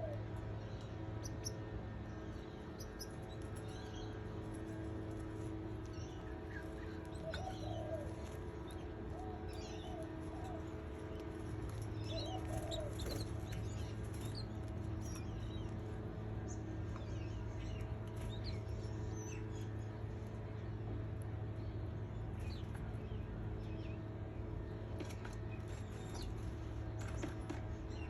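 Canaries chirping in short, scattered high calls, with four or five low wavering cooing calls in the first half, over a steady electrical hum.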